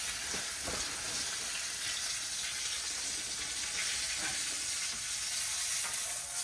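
Steak frying in a pan, a steady sizzle.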